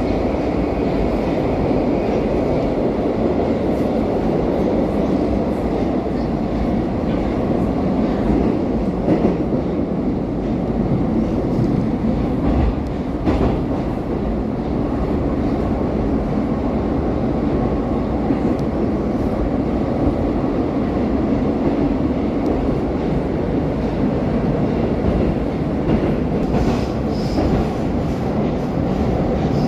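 Moscow metro train running through a tunnel between stations, heard inside the passenger car: a steady, loud rumble of wheels on rail and running gear.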